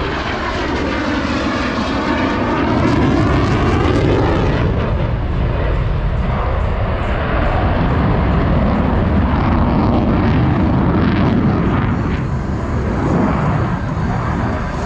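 F-16 fighter jet flying past, its engine making a loud, continuous jet roar. For the first four seconds or so the tone sweeps and wavers as it passes, then it runs on as a steady roar.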